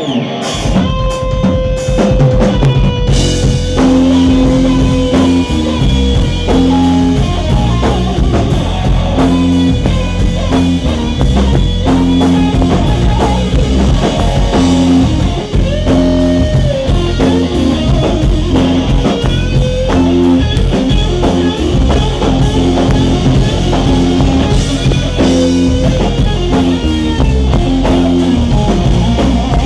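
Rock band playing live without vocals: an electric guitar lead with long, bending notes over a steady drum-kit beat.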